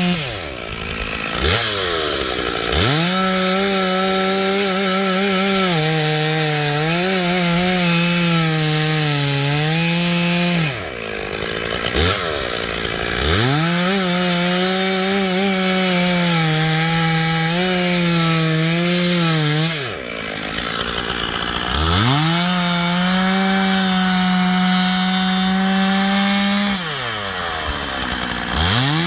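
Stihl 461 two-stroke chainsaw bucking ash logs into firewood, held at full throttle with its pitch wavering under the load of the cut. Four times it drops back to idle and revs up again between cuts.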